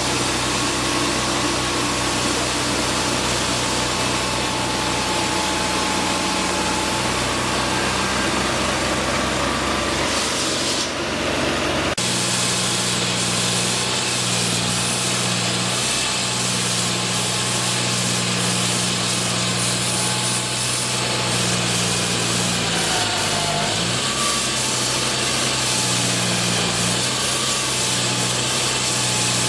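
Steady mechanical noise with a low hum, changing abruptly about twelve seconds in; the hum dips briefly in pitch a little after halfway.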